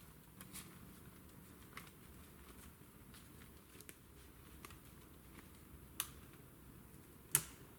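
Sparse small clicks and snaps over a faint steady background, with two sharper, louder snaps near the end.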